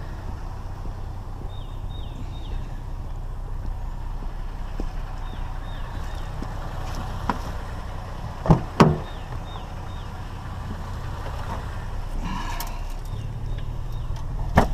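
Vehicle engine running steadily with a low rumble, two heavy thumps close together about eight and a half seconds in, and lighter knocks later.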